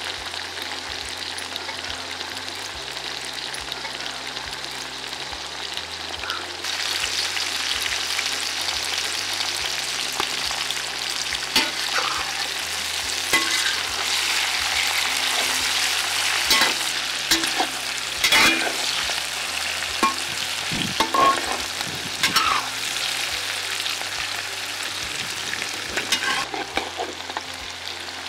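Sliced onion and chopped bell peppers sizzling in oil in a large aluminium wok, stirred with a metal ladle that clicks and scrapes against the pan, the scrapes bunched in the middle. The sizzle grows louder about seven seconds in.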